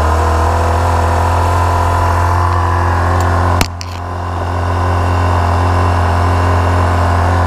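Small petrol engine driving the Rainman watermaker's high-pressure pump, running steadily just after a start on full choke. About three and a half seconds in there is a sharp click, and the engine's sound drops and then builds back up over a second or so.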